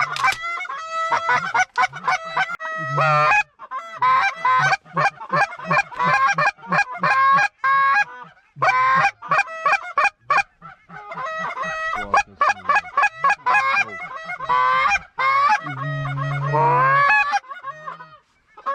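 Geese honking and clucking: a dense run of short, rapid honks, call after call with only brief pauses.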